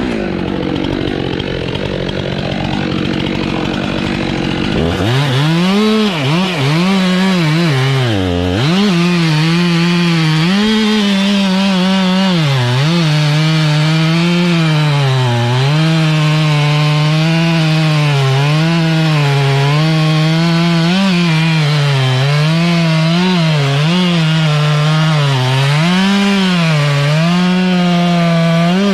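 Two-stroke chainsaw cutting maple. After a few seconds of lower rumbling, the saw runs at high revs, and its pitch dips and recovers again and again as the chain loads up in the cut.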